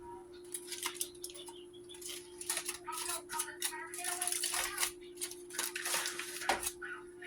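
Kitchen handling sounds: a pan of roasting potatoes and a utensil clattering and scraping in a string of short, scratchy bursts, over a steady low hum.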